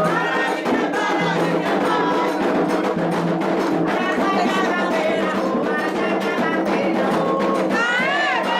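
Candomblé sacred chant: voices singing over a steady beat of hand drums and clicking percussion.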